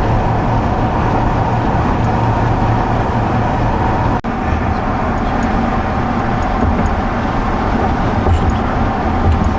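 Steady road and engine noise heard from inside a moving car, with a brief dropout about four seconds in.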